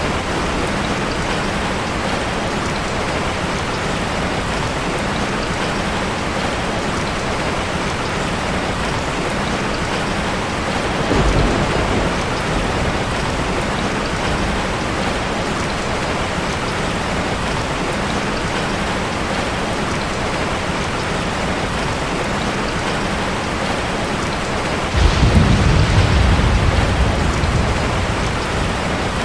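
Steady rain with thunder: a short low rumble about eleven seconds in, and a louder roll that starts suddenly near the end and dies away over a few seconds.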